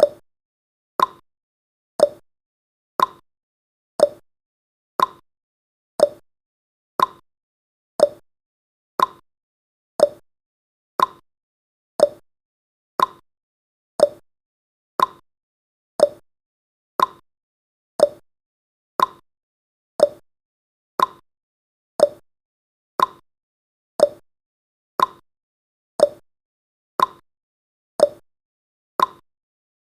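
Clock tick-tock sound effect, two short ticks a second, alternating higher and lower in pitch, marking off the seconds of a countdown timer.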